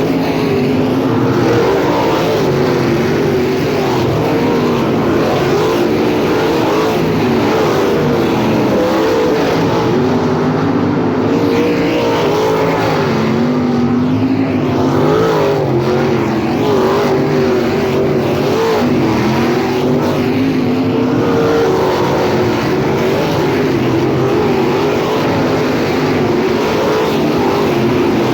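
A pack of sprint car engines running hard around a dirt oval. Several engine notes waver up and down together with no break.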